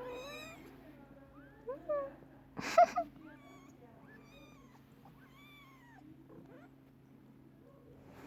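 Cat meowing, a series of short rising-and-falling meows, the loudest about three seconds in and fainter ones after it, over a steady low hum.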